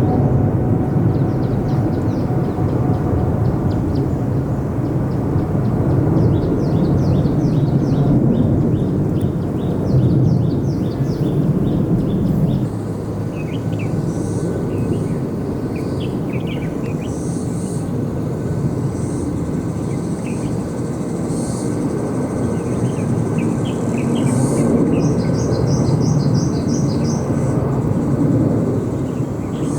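Steady low rumble of airliner jet engines, with small birds chirping over it in quick runs of short notes.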